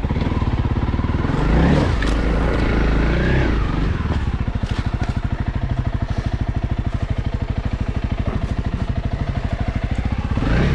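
Honda CRF300L's single-cylinder four-stroke engine chugging steadily at low revs while the motorcycle is ridden. There is a brief rise in revs about two seconds in and another near the end.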